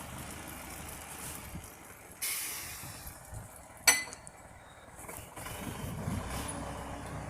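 Tractor engine running low, with a short hiss about two seconds in and a single sharp metallic clink that rings briefly about four seconds in; the engine then grows louder.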